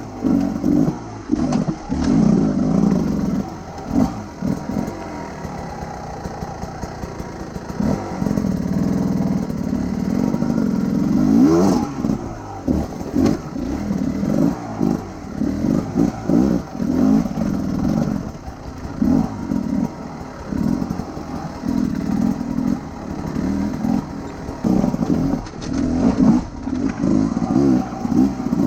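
Enduro motorcycle engine being ridden off-road, revving up and falling back again and again as the throttle is worked in short bursts, with one longer rise in pitch about twelve seconds in.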